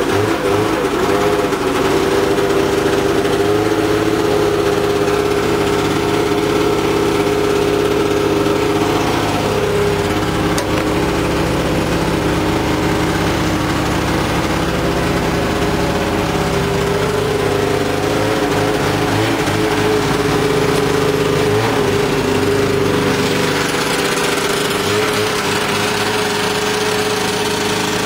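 Yamaha Enticer 340 snowmobile's two-stroke engine running steadily on a cold start, newly fitted with fresh spark plugs and fresh gas. It keeps running at an even speed throughout.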